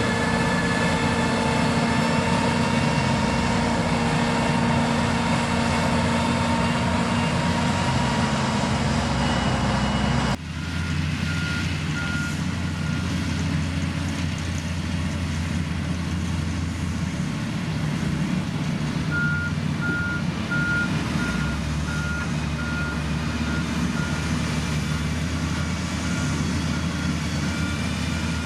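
Heavy construction machines' diesel engines running steadily. After an abrupt cut about ten seconds in, a reversing alarm beeps in one repeated tone over the engine, briefly at first and then continuously through the last third.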